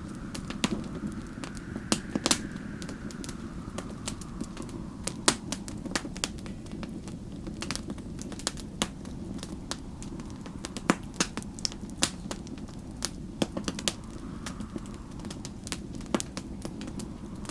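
Wood fire in a fireplace crackling, with many irregular sharp pops over a steady low rumble. A soft whistle of snowstorm wind swells and fades a few times.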